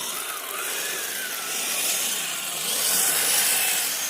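Electric drivetrain of a radio-controlled tracked snow vehicle running: a motor and gear whine whose pitch rises and falls with the throttle, over the steady hiss and rub of its plastic tracks.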